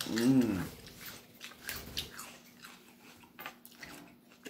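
Raw celery being chewed, with scattered small crunches, after a short hummed vocal sound in the first moment.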